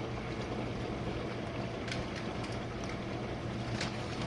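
Jenn-Air dishwasher running a wash cycle: a steady motor hum with water spraying and splashing inside the tub, and a couple of faint ticks.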